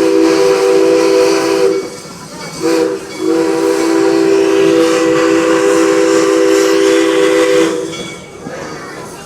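Steam locomotive's chime whistle blowing a chord of several notes with a hiss of steam: a blast ending about two seconds in, a brief toot, then a long blast of about four and a half seconds.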